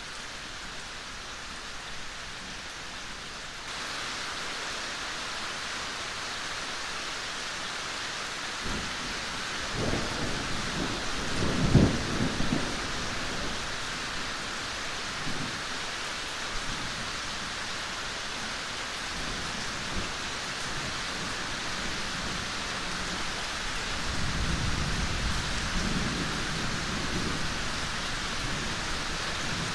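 Steady rain falling in a forest, an even hiss that grows a little louder about four seconds in. Thunder rumbles over it twice: a roll that builds to a loud crack around the middle, and a softer rumble near the end.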